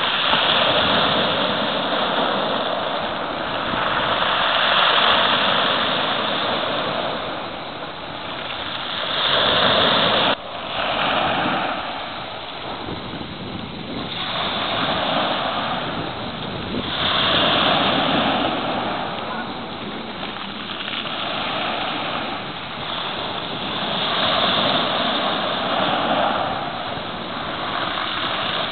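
Black Sea waves breaking on the shore: a steady wash of surf that swells and falls back every few seconds as each wave comes in, with a sudden break in the sound about ten seconds in.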